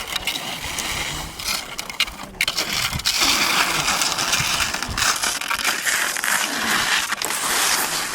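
Skis sliding over snow: a crunchy, scraping hiss that gets louder about three seconds in.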